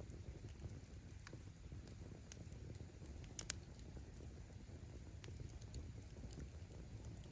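Wood campfire burning: a steady low flutter of flames with scattered crackles of firewood, and one sharp pop about halfway through.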